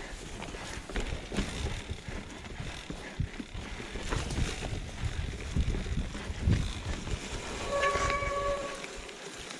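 Mountain bike rolling over a rough forest trail: knocks and rattles with a low rumble. Near the end there is a pitched squeal about a second long.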